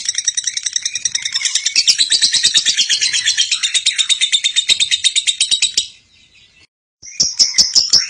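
Lovebird giving its long 'ngekek' chatter: a fast, unbroken run of shrill notes, about a dozen a second. It breaks off about six seconds in for roughly a second, then starts again.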